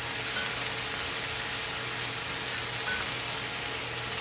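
Chicken drumsticks, onion and carrots sizzling steadily as they sauté in a hot pan.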